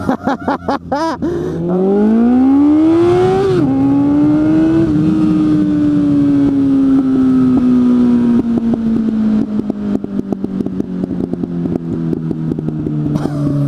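Suzuki GSF 600 N's inline-four through an aftermarket exhaust. It pops at the start, then accelerates with a rising pitch and changes gear about 3.5 s in. Its pitch then sinks slowly as the throttle is closed, and from about two thirds of the way through the exhaust crackles and pops with backfires on engine braking.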